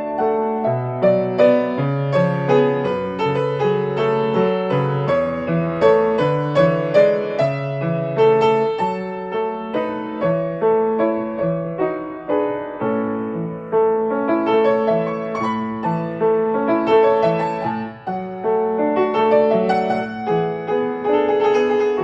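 Solo piano playing a gentle melody over chords at a deliberately unhurried pace.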